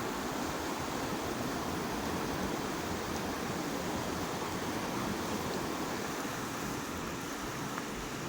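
River water flowing steadily, an even rushing noise with no distinct events.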